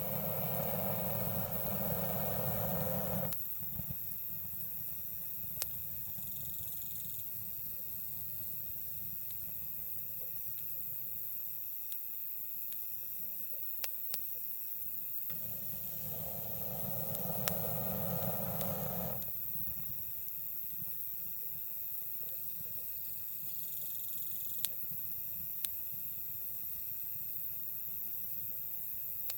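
Campfire burning with occasional sharp crackles and pops from the wood, over a steady background of insects chirring. Twice, near the start and again about halfway, a louder low rushing sound swells for a few seconds and then stops abruptly.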